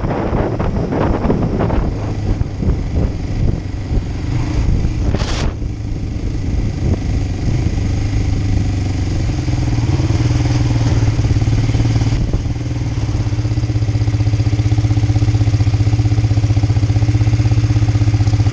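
Kawasaki Ninja 500 (EX500) parallel-twin engine, first under wind buffeting on the microphone, then running at a steady idle that grows louder and more even from about two-thirds of the way in. There is a brief hiss about five seconds in.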